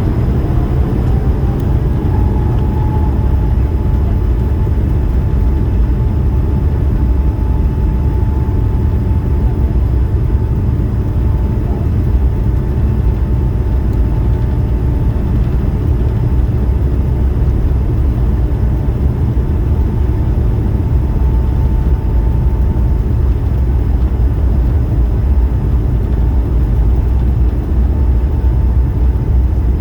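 Airbus A220-300's Pratt & Whitney PW1500G geared turbofan engines running at high power: a loud, steady rumble with an engine whine that rises just after the start and then holds at one pitch.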